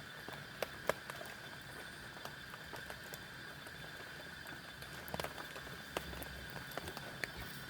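Scattered raindrops and drips tapping in irregular sharp ticks, a few louder than the rest, over a steady rain hiss.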